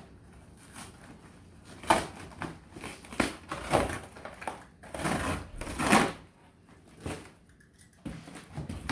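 A cardboard shipping box being opened and unpacked by hand: irregular rustling, scraping and a few sharp knocks of cardboard and packing material, with quieter gaps between.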